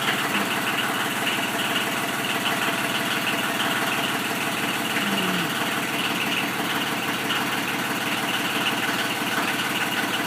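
Mini excavator's diesel engine running steadily with an even, rapid pulse.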